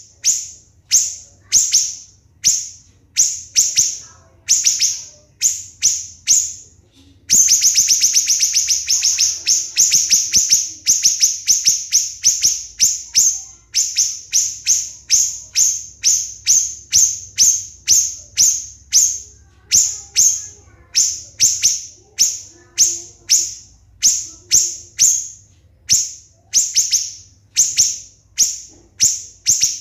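Siri-siri bird singing in loud, sharp, high-pitched rapid-fire notes ("tembakan rapat"), in short clusters about twice a second. About seven seconds in it breaks into a fast, tightly packed run of notes, then goes back to quick repeated clusters.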